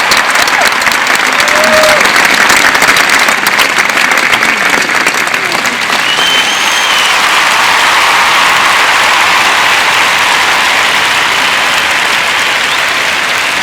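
Large audience applauding: dense, steady clapping that eases a little partway through, with a few short calls rising above it.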